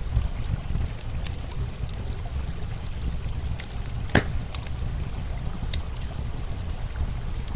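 Campfire crackling, with scattered sharp pops and one louder pop about four seconds in, over a steady low rush of running water.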